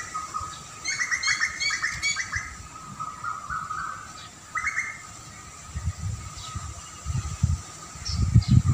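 Songbirds calling, with a fast run of repeated chirping notes about a second in and shorter calls afterwards, over a faint steady high tone. Low rumbling bumps come in near the end.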